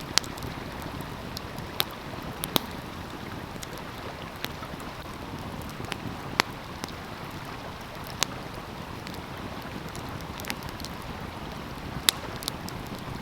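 Wood fire crackling, with about ten sharp, irregular pops, over the steady rush of a flowing stream.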